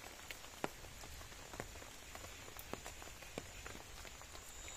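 Light rain dripping: scattered, irregular taps of single drops, a few a second, over a faint steady high-pitched insect drone.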